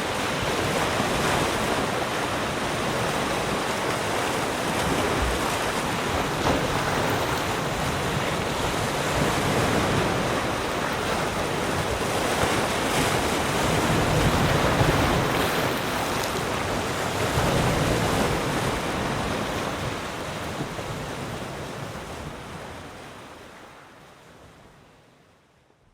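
Ocean waves washing on a shore, a steady rush that swells and eases gently, fading out to silence over the last few seconds.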